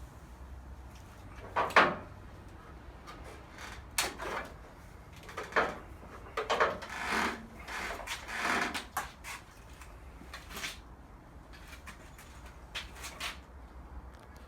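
Irregular knocks, scrapes and rubbing sounds of things being handled. The sharpest knock comes about two seconds in, and a cluster of scrapes and knocks follows between about four and nine seconds.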